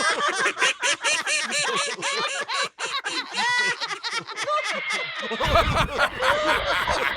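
Rapid, high-pitched snickering laughter, many short rising-and-falling bursts a second. A low rumble joins about five seconds in.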